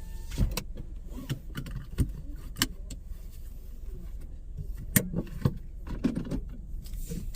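Seatbelt being pulled across and buckled inside a car: a series of sharp clicks, rattles and knocks over the low steady hum of the idling car.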